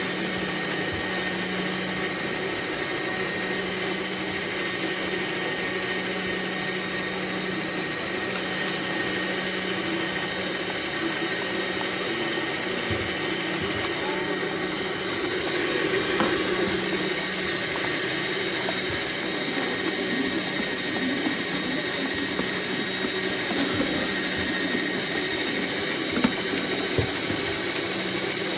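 AMZCHEF cold-press slow juicer's motor running steadily with a constant hum, with a few faint clicks.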